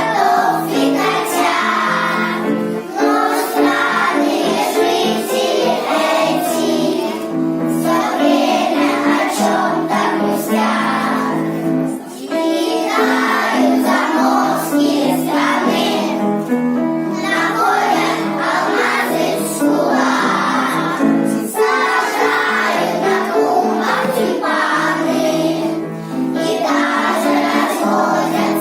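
A group of young children singing a song together over a musical accompaniment.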